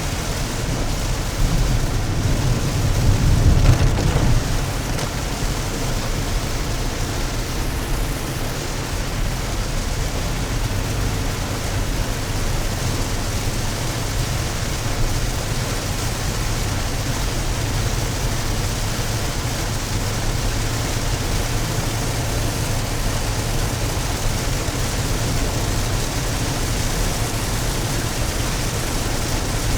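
Steady rain on a moving car with tyre and road noise underneath, heard from inside the cabin; a low rumble swells briefly a few seconds in.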